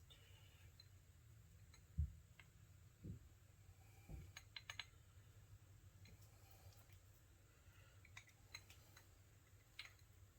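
Quiet handling of small metal transaxle parts: scattered light metallic clicks, a quick cluster of them between four and five seconds in, with a few soft thumps, the loudest about two seconds in, over a low steady hum.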